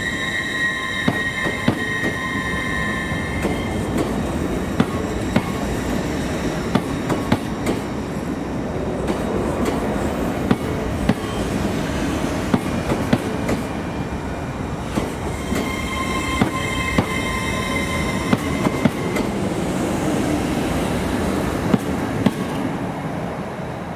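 A train moving slowly through the station over pointwork. Its wheels squeal on the curves near the start and again about two-thirds of the way in, and repeated clicks come from the wheels passing over rail joints and points. The sound fades near the end.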